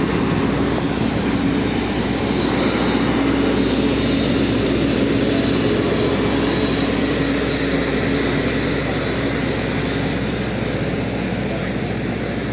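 Jet airliner running on the airport apron: a loud, steady noise with a constant whine running through it.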